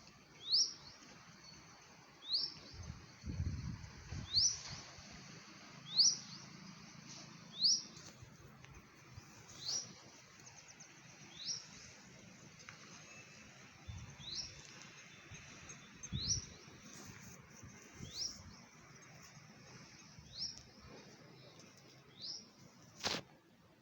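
A bird repeating a short rising chirp roughly every one and a half to two seconds, with a single sharp click near the end.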